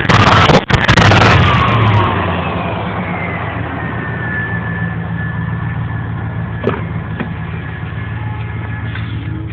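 Truck engine and exhaust coming down from a rev, loud for the first two seconds with the pitch falling, then settling into a steady idle. A faint high whine falls with the revs and then holds steady.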